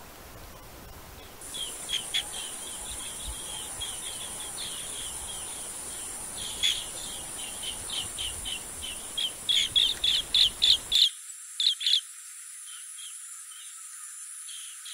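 Green bee-eaters calling in short, high chirps, scattered at first, then in quick loud runs about two-thirds of the way in. Under them is a steady high-pitched insect drone that starts about a second and a half in.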